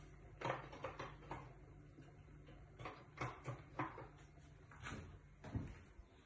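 Light knocks and clatters of kitchen utensils and containers being handled while cooking, a dozen or so scattered through, over a low steady hum that stops near the end.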